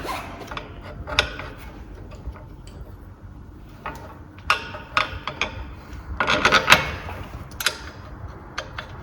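Scattered metal clicks and clinks from handling a suspension strut and the arms of a coil spring compressor, with a busier run of knocks about six to seven seconds in.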